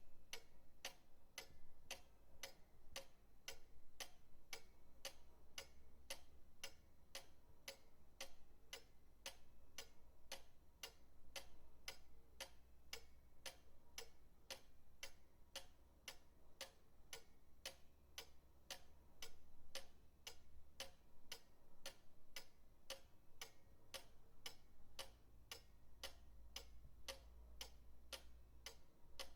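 Pendulum clock ticking quietly and evenly, about two ticks a second.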